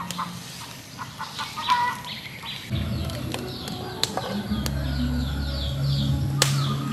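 Birds chirping in quick runs of short falling notes. A low steady hum comes in about three seconds in, and there are two sharp clicks.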